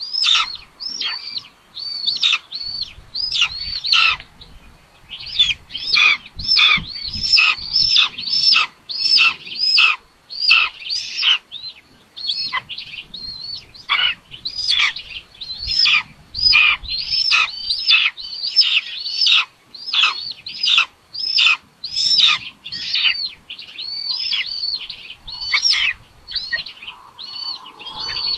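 Nestling raptors giving a long series of high, arching begging calls, about two a second and sometimes overlapping, while a parent feeds them beak to beak. Low rustles and bumps of movement in the nest sit under the calls for a few seconds early on.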